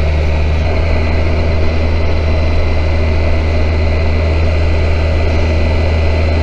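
Kawasaki Versys 1000 SE's inline-four engine running at a steady, even pitch while the motorcycle is under way.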